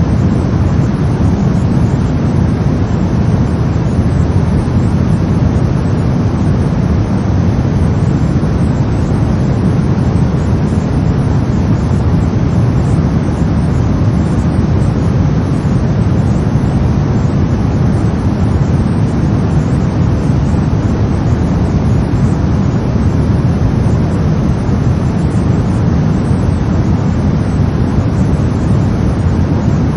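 Brown noise: a steady, deep rumbling hiss with most of its weight in the low end and no change in level or character.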